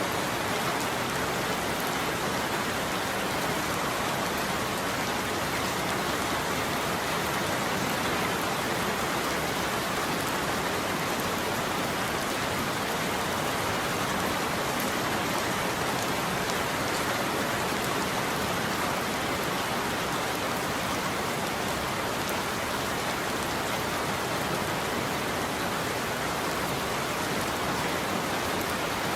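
Steady rain falling on a roof, an even, unbroken hiss with no thunder.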